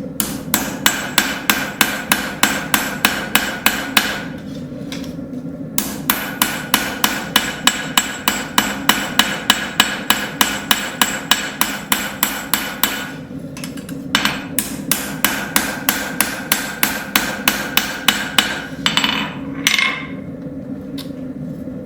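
Hand hammer striking a hot railroad spike on an anvil, drawing out the blade, in three runs of about three ringing blows a second with short pauses between. A steady hum runs underneath, and a brief scraping noise comes near the end.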